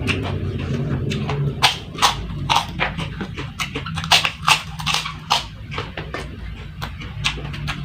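Close-miked eating of fried rice and chili crackers: irregular chewing clicks and crunches of the mouth, several a second.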